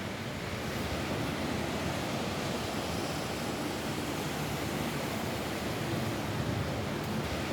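Rain falling steadily on a roof, an even hiss that holds constant throughout.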